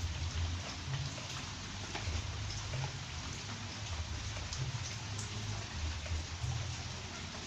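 Steady rain falling, an even hiss with scattered small drop ticks, over an uneven low rumble.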